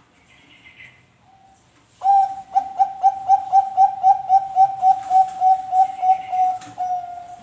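Zebra dove (Bangkok-type perkutut) cooing. About two seconds in it starts a fast run of short coos on one pitch, about four a second for some five seconds, and ends on a longer held note.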